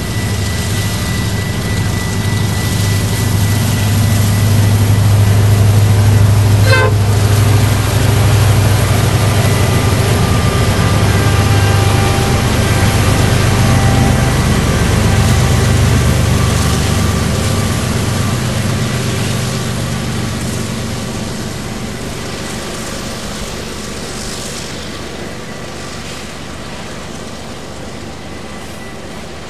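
A train's diesel locomotive goes by with a heavy low engine rumble. It builds over the first several seconds and fades away through the second half, with thin steady whistling tones above it. A short clatter comes about seven seconds in.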